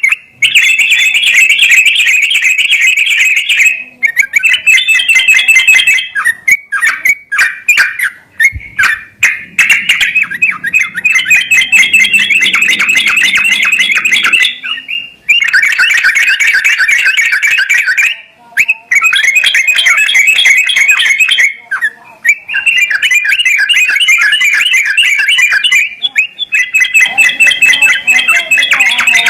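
Yellow-vented bulbul (trucukan) song: loud phrases of fast, bubbly chattering notes, each several seconds long, broken by short pauses. This is a lure recording played to coax a caged bulbul into singing.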